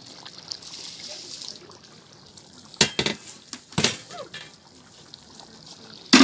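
Kazan being handled: sharp metal knocks and clinks, three of them louder, with liquid sloshing and a short hiss near the start.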